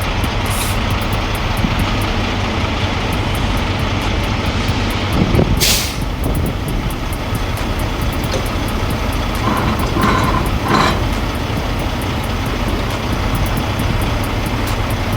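Semi-truck diesel engine running steadily, with a short sharp hiss of air from the air brakes about five and a half seconds in, and a couple of brief squeaks near ten seconds.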